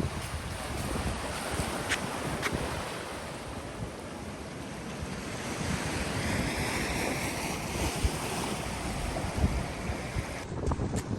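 Ocean surf washing on a beach, with wind rumbling on the microphone. The wash swells louder around the middle, then eases.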